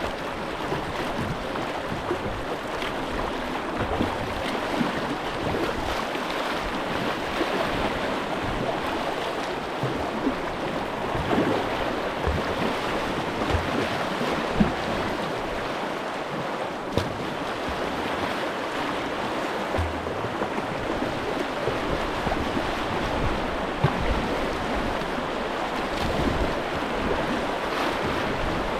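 Steady rush of a fast-flowing river current, with a few brief knocks over it.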